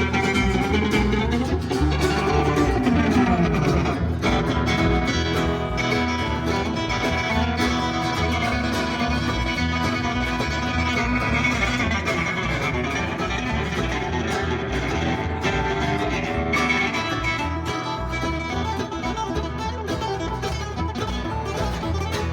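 Live country band playing an instrumental passage with guitar to the fore and a steady beat beneath, with no singing.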